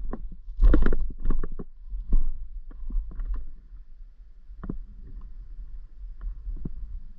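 Low rumble with irregular knocks and clatters from a mini bike jolting over a rough, steep trail. The knocks are busiest and loudest in the first second or so, then thin out.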